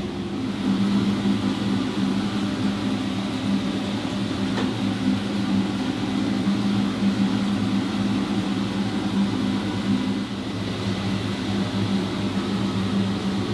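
A car engine running at a steady speed, a constant low hum with no change in pitch.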